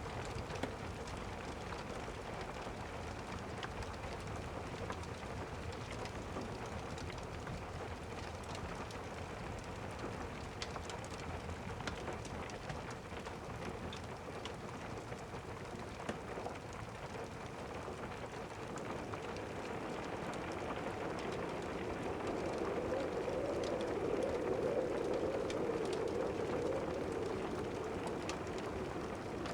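Steady rain with fine scattered crackling ticks, swelling louder in the latter half.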